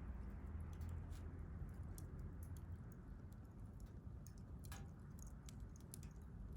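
Wood fire crackling faintly: scattered small pops and clicks over a low steady rumble, with one sharper pop about three-quarters of the way through.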